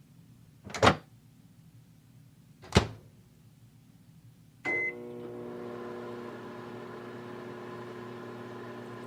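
Two sharp thunks, then a short beep as a microwave oven is started, followed by the oven's steady running hum as it heats frozen lasagna.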